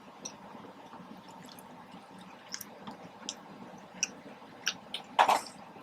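Wet mouth sounds of someone chewing a soft-shell taco: scattered small clicks and smacks, with one louder smack near the end.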